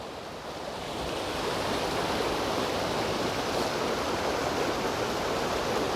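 Creek water rushing over small waterfalls and rock slides: a steady, even rush that grows a little louder over the first second or so.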